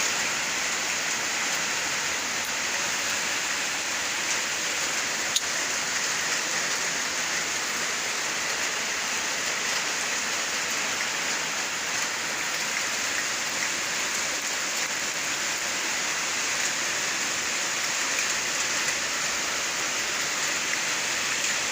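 Steady rain falling, an even hiss with one sharp click about five seconds in.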